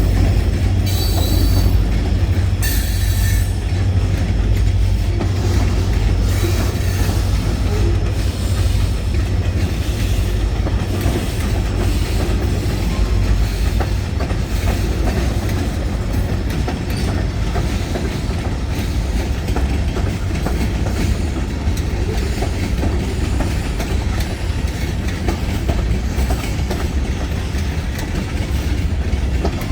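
Freight train rolling past: a steady heavy rumble with rapid clicking of wheels over rail joints, and a brief high wheel squeal in the first few seconds.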